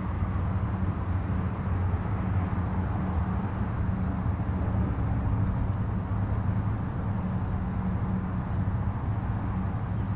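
Distant highway traffic: a steady rumble of tyres and engines with a low hum, unbroken and without distinct passing vehicles.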